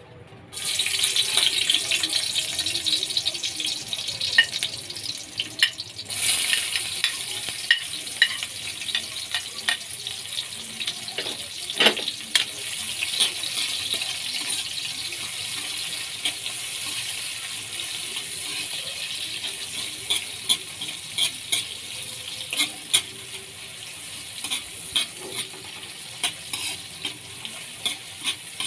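Sliced onion and garlic hit hot oil in a metal wok and start sizzling about half a second in. The sizzling surges again about six seconds in, then goes on steadily while a metal ladle stirs and scrapes against the wok with frequent clicks.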